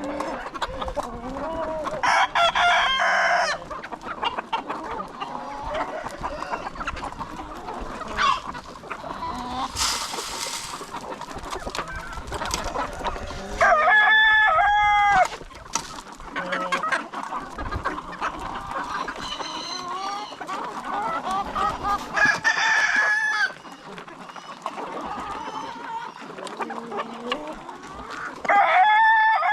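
A flock of chickens clucking steadily, with a rooster crowing loudly four times, each crow lasting a second or more.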